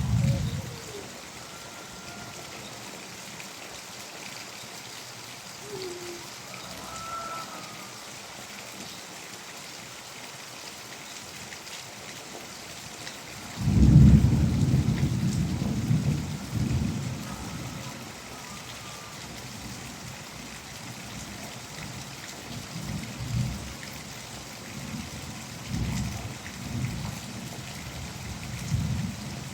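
Steady rain falling. About halfway through, a loud low rumble of thunder sets in suddenly and dies away over several seconds, with fainter low rumbles near the end.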